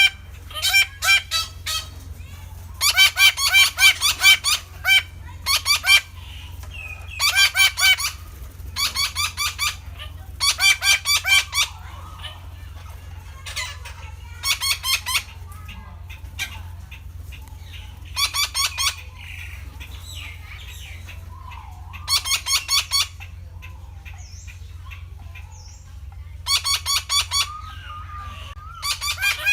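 Red-breasted parakeet calling: about a dozen bursts of rapid repeated notes, each burst about a second long, with pauses between them, over a steady low hum.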